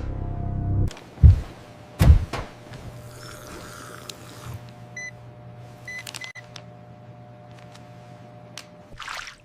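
Dramatic horror sound design. Score music cuts off about a second in, followed by two heavy low thuds. After that comes a steady low electronic hum, with a few short high beeps around the middle and a brief hiss near the end.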